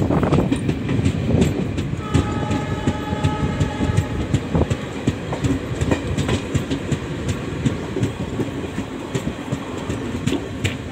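Moving Indian express passenger train heard from on board, its wheels clattering over the rail joints in a steady run of clicks. About two seconds in, a train horn sounds a steady note for about two seconds.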